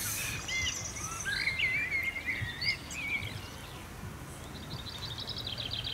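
Songbirds singing: varied warbling, chirping phrases, then a fast run of short, high repeated notes in the second half.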